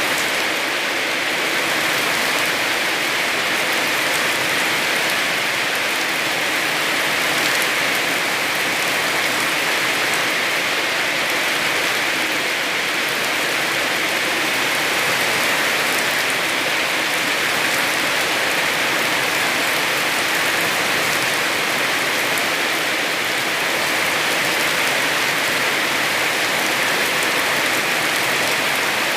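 Heavy rain falling steadily, an even hiss of drops on surfaces with no breaks or single events.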